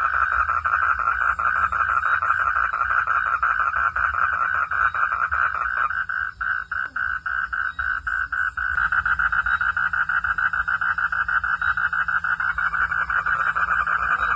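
Chorus of frogs calling at night, a dense run of rapid pulsed calls. About six seconds in it thins to separate pulses, then fills back in near nine seconds.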